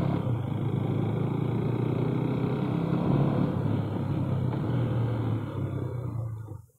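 KTM Duke 390's single-cylinder engine running steadily, then cutting off abruptly near the end.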